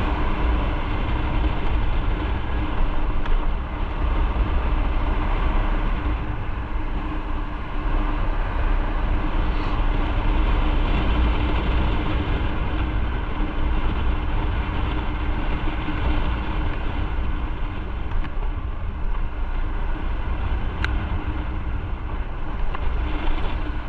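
Motorcycle running steadily while riding, a constant engine hum under heavy low wind rumble.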